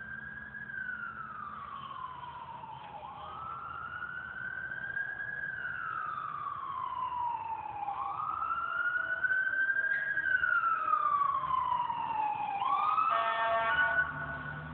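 Fire engine siren on wail, sweeping slowly up and down in pitch and growing louder as the truck approaches. Near the end a steady horn blast sounds for about a second over the siren.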